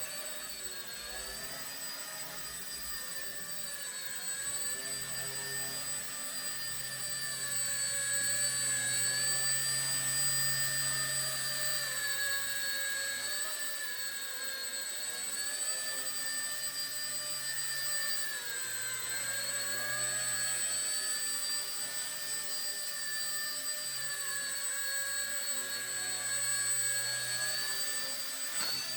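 Micro F150BL V3 RC helicopter's brushless motor and rotor whining in flight, the pitch drifting gently up and down as the throttle changes. It grows louder several seconds in.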